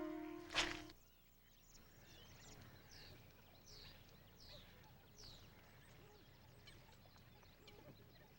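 A held synthesizer chord ends within the first second, followed by faint background with several short, high, falling bird chirps.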